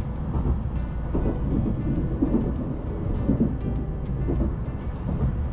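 Shinkansen bullet train running on the track, heard from inside the passenger cabin: a steady low rumble with a few sharp clicks.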